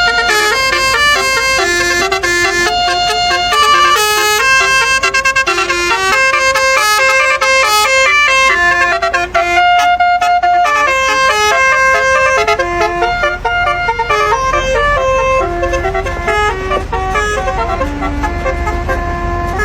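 Basuri V8 multi-tone musical truck horn playing a melody, its notes stepping up and down in quick succession. A low rumble grows under it in the last few seconds.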